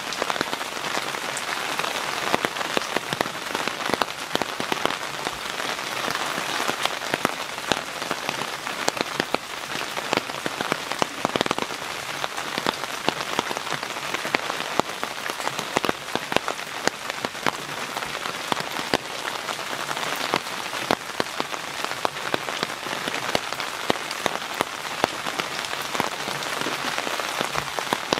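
Steady rain falling on and running off a wooden cabin roof: an even hiss with many sharp, separate drop strikes close by.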